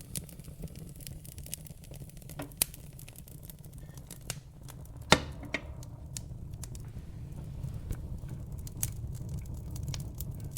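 Wood fire burning in a fireplace: a steady low rumble of flames under scattered crackles, with one sharp loud pop about five seconds in and a smaller one a couple of seconds earlier.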